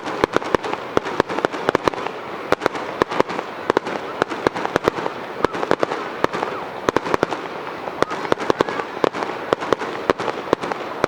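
Fireworks display: a rapid, irregular barrage of sharp bangs and pops, several a second, over a continuous crackling haze.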